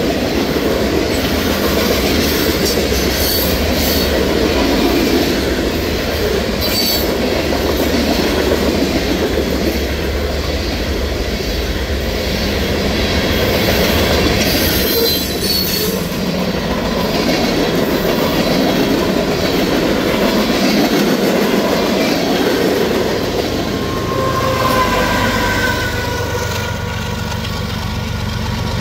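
Freight cars of a CSX train, gravel hoppers and covered hoppers, rolling past on jointed rail: a steady rumble and clatter of steel wheels with a few sharp clicks. A brief wheel squeal comes near the end, and a low diesel engine hum builds as the train's trailing DPU locomotive passes.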